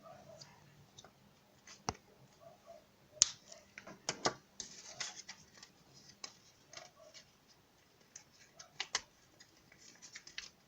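Paper and craft tools being handled while making a notebook: irregular sharp clicks and short papery rustles, with the loudest clicks about two, three, four and nine seconds in.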